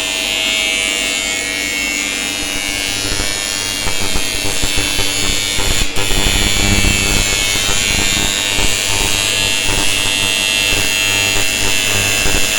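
TIG welding machine and arc buzzing steadily, with a high whine over a low hum. It grows louder and rougher about four seconds in and breaks off for an instant about six seconds in.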